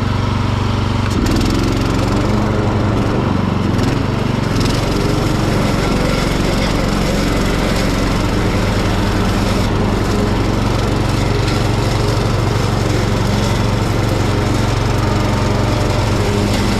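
Hecht ride-on garden tractor running steadily with its mower blades spinning while it mows. The engine note shifts slightly about a second in.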